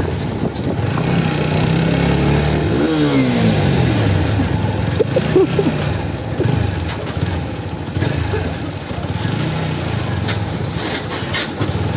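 Motorcycle engine running under way, its note rising and falling with the throttle; the pitch drops steeply about three seconds in as the bike slows down.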